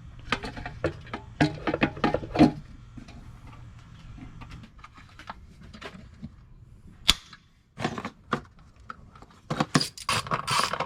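Scattered metallic clinks and knocks of hand tools and parts being handled, with one sharp crack about seven seconds in.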